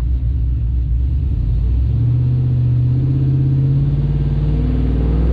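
Cammed 6.0-litre LS2 V8 of a 2006 Chevrolet Trailblazer SS running loud, its revs climbing about two seconds in and held high.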